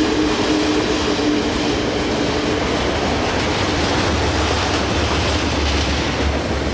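Freight train's container wagons rolling past close by: a continuous rumble and clatter of steel wheels on rail. A steady hum dies away about two and a half seconds in, and a deeper low rumble builds about four seconds in.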